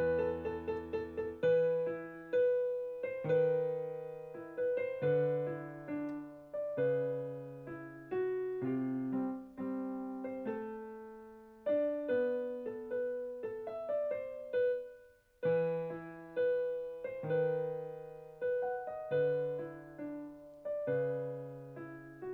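Solo piano music: a slow melody over chords, each note struck and then dying away, with a brief pause about fifteen seconds in.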